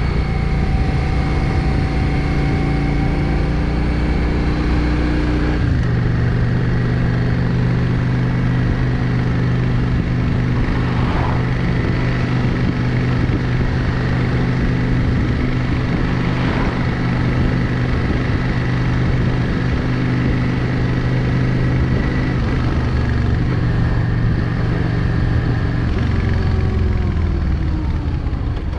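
Yamaha XVS 650 Drag Star's air-cooled V-twin running under way. The steady engine note changes abruptly about six seconds in and falls in pitch near the end.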